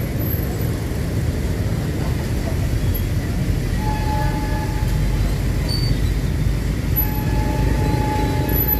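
Steady low rumble of a freight train rolling away over the level crossing, mixed with the hum of city street traffic and motorbikes. A high held tone sounds briefly about four seconds in and again from about seven seconds.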